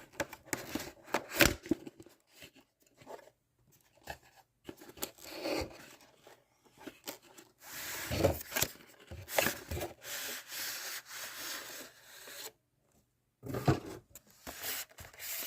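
A model locomotive's box and packaging being handled as the locomotive is taken out: irregular rubbing, scraping and tearing, with a few knocks and a longer stretch of steady rustling about two-thirds of the way through.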